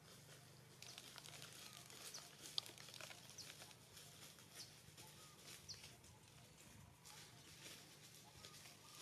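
Near silence with faint crackling and a few short, high bird chirps scattered through the middle.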